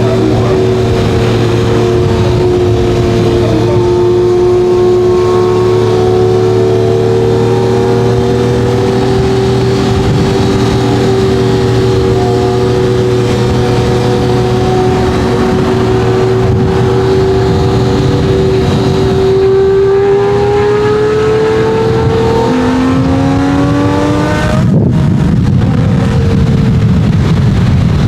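Lamborghini Murcielago LP640's V12 with a straight-piped Fi exhaust, running loud at a steady engine speed, then climbing in pitch as the car accelerates. Near the end the sound breaks off briefly and comes back lower and rougher, a gear change.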